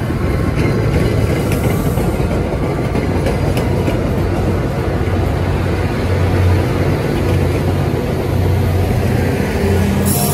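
MBTA commuter rail coaches passing close at speed: a steady, loud rumble of wheels on rail with a low drone, clicking over the rail joints in the first few seconds, and a hiss coming in near the end as the rear of the train approaches.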